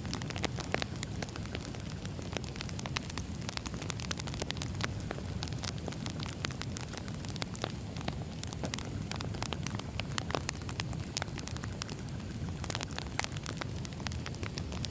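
Wood fire burning steadily, with irregular crackles and pops over a low rumble of flame.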